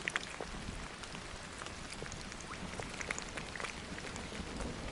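Rain falling steadily, with many separate raindrops ticking sharply close by.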